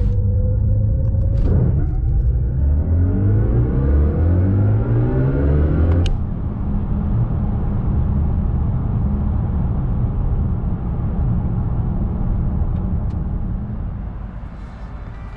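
BMW i5 M60 electric sedan accelerating hard: a whine of its electric drive rises steadily in pitch for about four seconds over a heavy low rumble, then stops abruptly about six seconds in as the acceleration ends. A steady road rumble follows and fades near the end.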